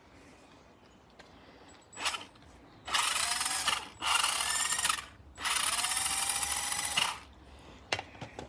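The RC truggy's FTX 20-turn electric motor and gearbox are run up in three throttle bursts, each a whine that rises as the motor spins up, after a short blip. This is a test of the drivetrain after a loose drive cup was refitted and the gears were freshly greased.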